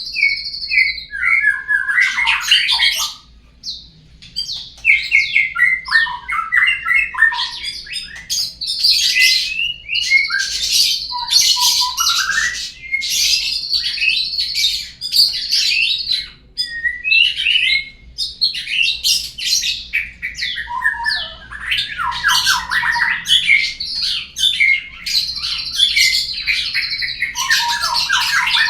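Murai lure song: a fast, almost continuous run of varied whistles, chirps and harsh notes, with two short pauses, played to provoke a murai into singing.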